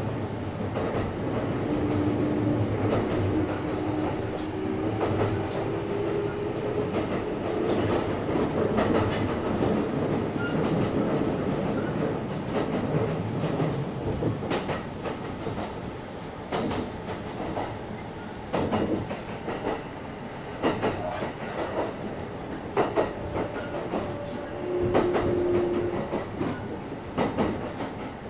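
Kintetsu 1031-series electric train running, heard from inside the passenger car: a steady rumble of wheels on rail, with a motor whine rising in pitch from about two seconds in. From about halfway it runs quieter, with sharp wheel clacks over rail joints and a brief motor whine near the end.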